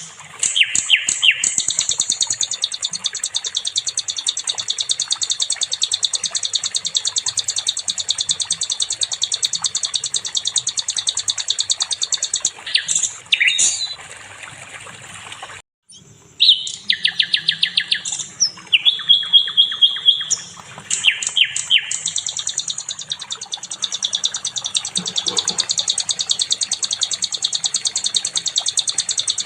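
A sikatan londo songbird sings a continuous, fast, high-pitched chattering trill of rapid repeated notes. There is a brief break about halfway through.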